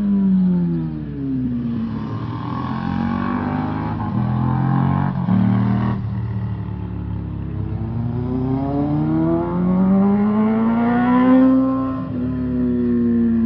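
Motorcycle engine under way: the engine note drops as it slows in the first second or so, runs low for several seconds, then climbs steadily as it accelerates, easing off near the end.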